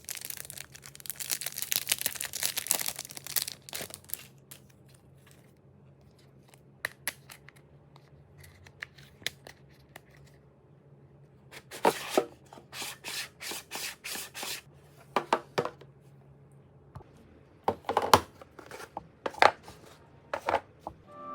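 Plastic packaging rustling and tearing, followed by scattered light clicks and taps as small plastic items are handled, including a short run of quick clicks about halfway through.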